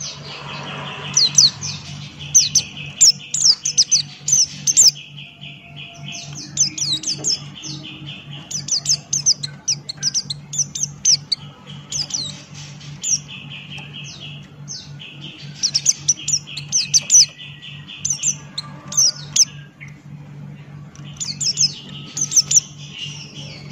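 White-eye (pleci Buxtoni) singing loudly: quick, sharp, high chirps in repeated bursts of a few seconds with short gaps between. Under the chirps run a steady pulsed buzzing trill and a constant low hum.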